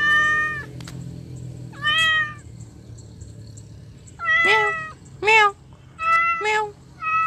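A calico domestic cat meowing repeatedly, six separate meows, the later ones lower in pitch.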